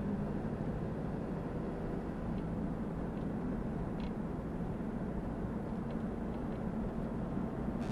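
Camper van driving, heard from inside the cab: a steady low engine and road drone.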